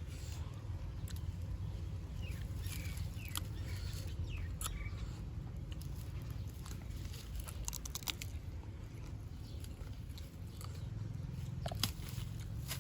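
Crisp crunching bites and chewing of raw green mango, heard as scattered sharp clicks over a steady low rumble.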